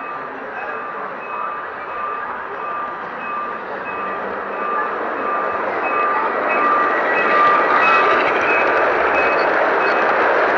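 Electronic warning beeper sounding a steady, evenly spaced beep about every 0.7 seconds over a rushing noise that grows louder about halfway through.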